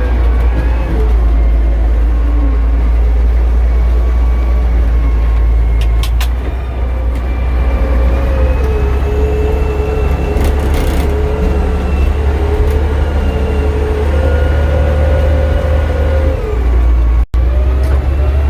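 Caterpillar D6D crawler dozer's six-cylinder diesel running hard under load while pushing snow: a steady low drone with a whine that rises and falls in pitch, and a few short clanks.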